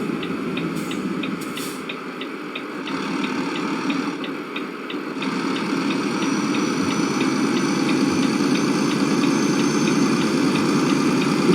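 Steady low rumble of a vehicle running, with a fast, even ticking about three times a second throughout.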